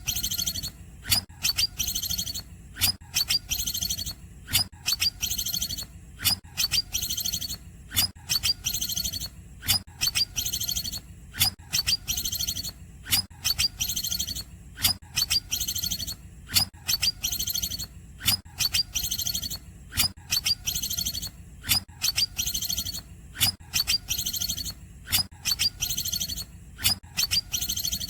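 Cucak ijo (green leafbird) singing in the 'cungkokan' style: a sharp, high call repeated evenly about twice a second, with thinner high notes between, over a steady low hum.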